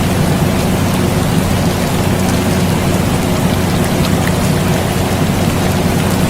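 Steady rain hissing and pattering, with scattered drop ticks, over the constant low hum of a running air conditioner.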